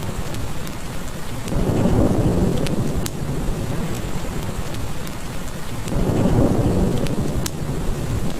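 Steady heavy rain with low rolling thunder that swells twice, about a second and a half in and again around six seconds. A few sharp crackles from a wood fire are scattered through it.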